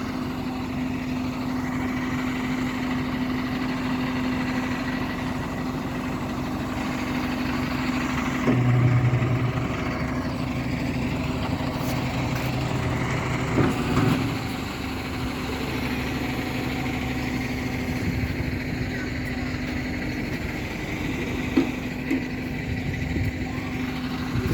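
Tow truck engine running steadily with a constant hum. A deeper hum swells about eight and a half seconds in and carries on, and there are a few short knocks around the middle and again near the end.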